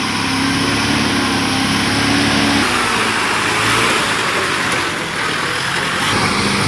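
Motor vehicle engine running under load. A steady engine note breaks off about two and a half seconds in, leaving a rough rushing noise, and the engine note comes back near the end.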